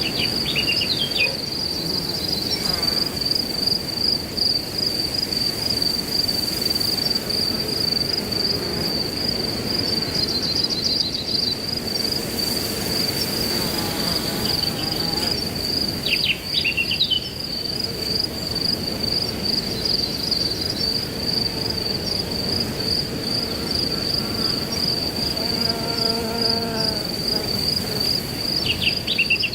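Crickets trilling steadily in a fast, high, pulsing chirr over the rustling hiss of wind through grass. Brief bird chirps break in a few times: at the start, about halfway, and at the end.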